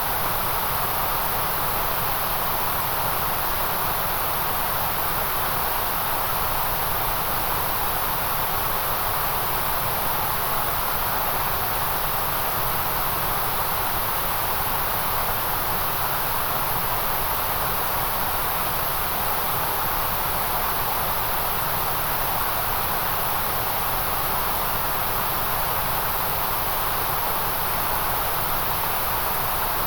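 Steady synthetic white-noise track: an even, unchanging hiss with no breaks or events.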